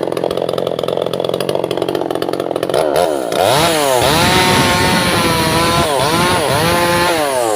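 Two-stroke chainsaw idling, then revved to high speed about three seconds in, its pitch sagging and recovering a couple of times as the chain cuts into albasia wood, before falling back near the end.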